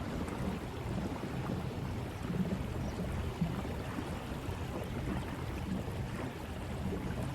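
A small speedboat cruising slowly under an electric outboard: steady water wash along the hull, with wind buffeting the microphone.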